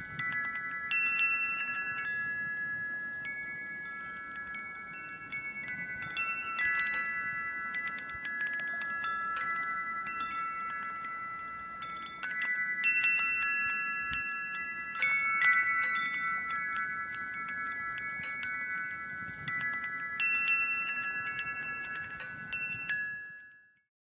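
Wind chimes ringing, struck again and again at irregular moments, so that several clear metallic tones overlap and sustain. The sound fades out near the end.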